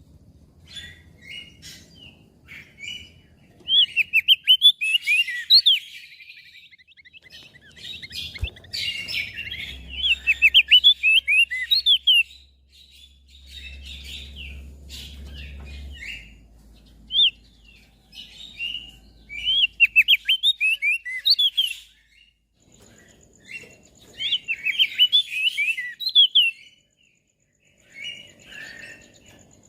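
Opior jambul (crested darkeye), a white-eye, singing in several bursts of rapid, high twittering notes, each burst lasting about two seconds with short pauses and softer chirps between them.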